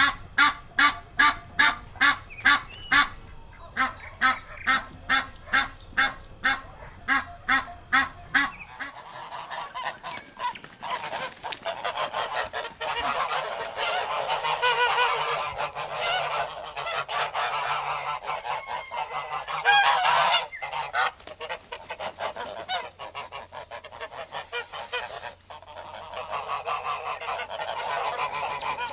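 Waterfowl calling. First one bird gives a fast, regular series of honking calls, about two to three a second. About nine seconds in, a flock takes over, many birds calling at once in a dense overlapping chorus.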